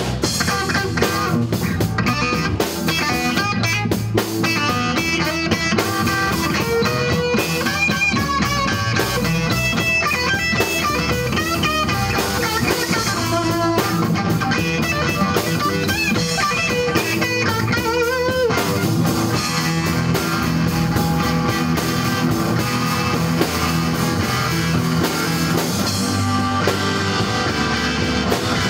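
Rock music played on electric guitar over a drum kit, loud and steady throughout.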